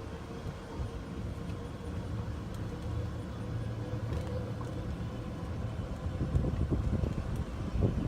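Golf cart driving along the trail: a steady low rumble with a faint held tone above it and a few small knocks.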